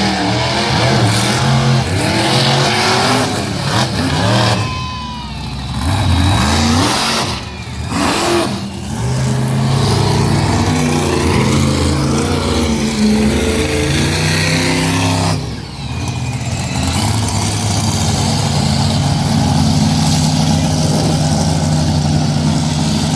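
Monster truck engine running loud and revving up and down, easing off briefly a few times.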